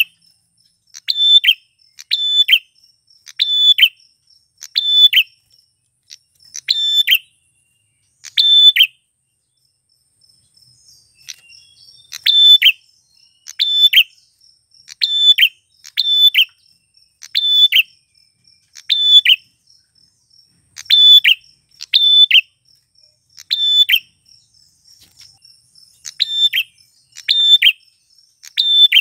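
Male prenjak klawu (a prinia) calling: a loud, sharp call repeated about once a second, with a break of a few seconds near the middle. A faint, rapid, high ticking runs underneath.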